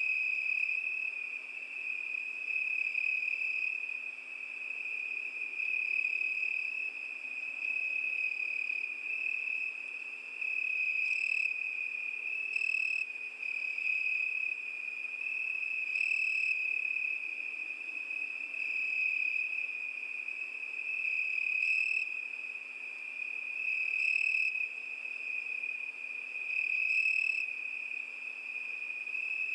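Cricket song: a continuous high, even trill that swells and eases in loudness every two to three seconds.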